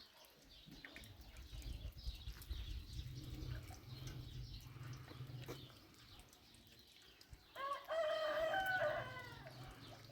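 Rooster crowing once, a single call lasting nearly two seconds, about three-quarters of the way through.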